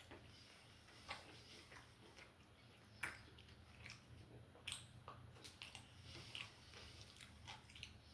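Close-miked eating: a person biting and chewing food with irregular, crisp mouth clicks. The sharpest come about three seconds in and again near five seconds. A faint low hum runs underneath.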